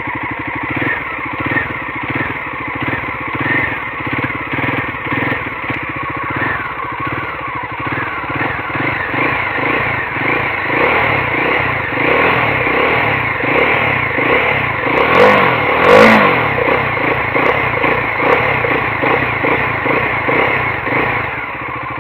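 Bajaj Dominar 400's 373 cc single-cylinder engine running at idle through its dual exhaust, with repeated swells of throttle blips; the loudest rev comes about three-quarters of the way through.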